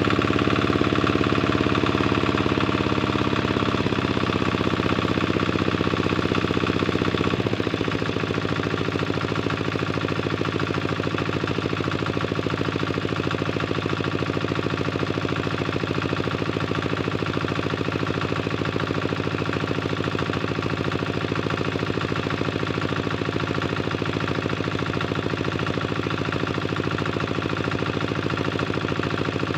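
Tractor engine running steadily with a rapid, knocking firing beat. Its note shifts about four seconds in, then drops a little and settles about seven to eight seconds in, as the revs or load change.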